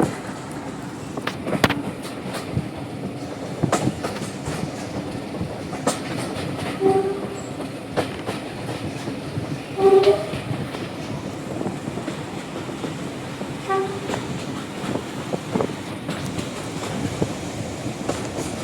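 Diesel-hauled heritage train running, its wheels clicking over rail joints, with three short toots of the train horn about 7, 10 and 14 seconds in, the middle one the loudest.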